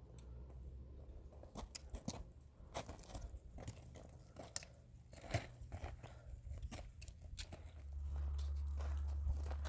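Irregular crunching and clicking, uneven in spacing, with a low steady rumble that comes in about eight seconds in.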